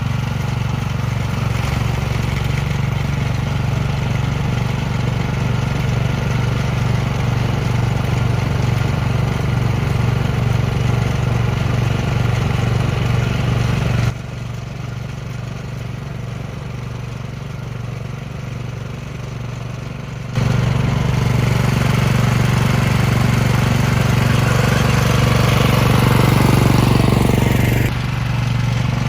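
Gasoline snow blower engine running steadily. About halfway through it drops noticeably in level for roughly six seconds, then comes back to full loudness.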